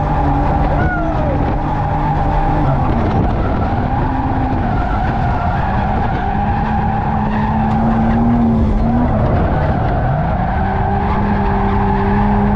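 A drift car's engine held at high revs, its pitch dipping and rising several times, over a steady tyre squeal from a slide.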